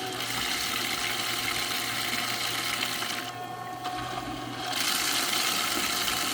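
Small electric live-well aerator pump running with a steady motor hum, water hissing and splashing around it. The hiss cuts out for about a second and a half midway, then comes back.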